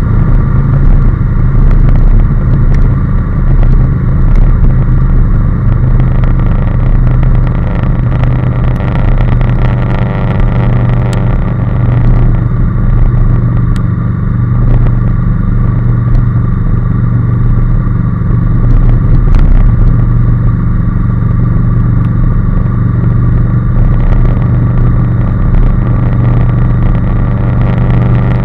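Honda NC750S motorcycle's parallel-twin engine running at a steady pitch while riding along, with a few faint clicks.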